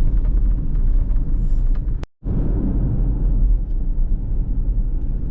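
Steady low road and tyre rumble inside the Mustang Mach-E's cabin while driving. It cuts out completely for a moment about two seconds in, then resumes.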